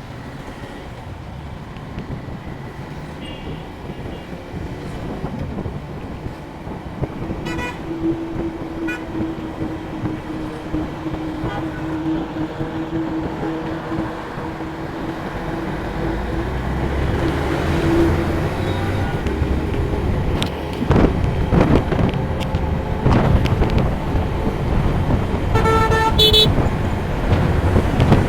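Road traffic with vehicle horns honking several times, the loudest blast near the end. Wind buffets the microphone more and more in the second half.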